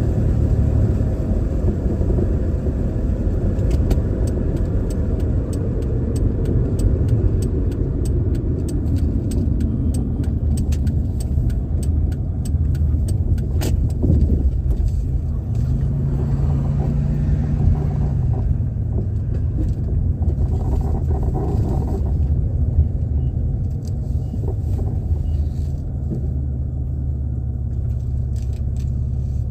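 Car driving, heard from inside the cabin: a steady low rumble of engine and road noise, with scattered faint ticks and a brief deeper hum about halfway through.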